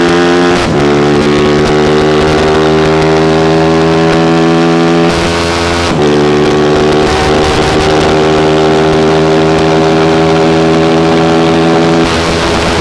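Honda CG single-cylinder four-stroke motorcycle engine running hard at steady revs, with two brief dips in pitch, about half a second in and about six seconds in.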